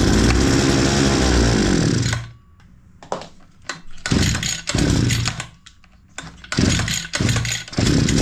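Oleamac BCH 40 brushcutter's two-stroke engine firing on pull-starts but running only briefly each time: one run of about two seconds that falls in pitch and dies, then several shorter bursts that stop again. It will not keep running, which is put down to a faulty carburetor.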